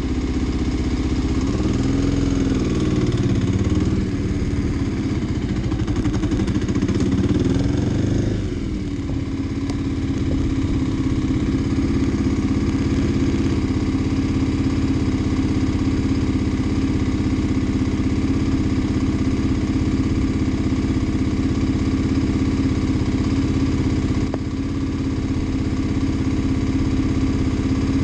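Kawasaki D-Tracker's single-cylinder four-stroke engine pulling away, its pitch rising and falling several times with the throttle, then dropping at about eight seconds in to a steady idle.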